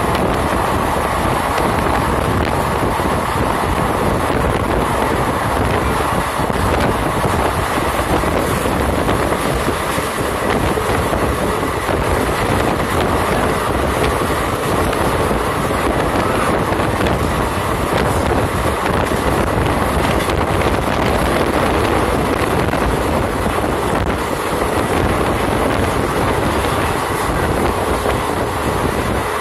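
Train running at speed, heard from a carriage: a steady rumble of wheels on rails with faint clicks.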